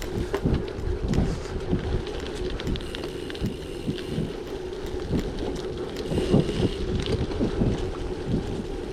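Wind buffeting the microphone over a bicycle rolling on a gravel track, its tyres crackling over loose stones, with a steady hum underneath.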